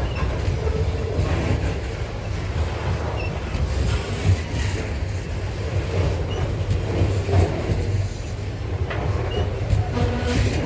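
Loaded grain freight wagons rolling past: a steady low rumble of steel wheels on the rails with irregular clatter and knocks from wheels, couplings and rail joints, and faint brief high wheel squeals.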